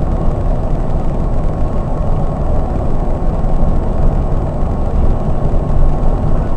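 Scania K420 double-decker coach driving steadily at speed: a continuous low drone of engine and road noise.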